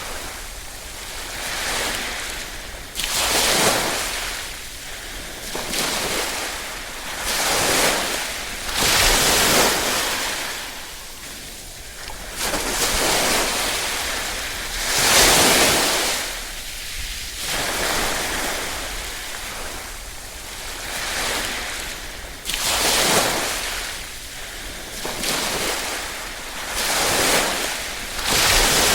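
Small ripple waves lapping on a shore, each wash swelling and receding every two to three seconds, one surge louder than the rest about halfway through.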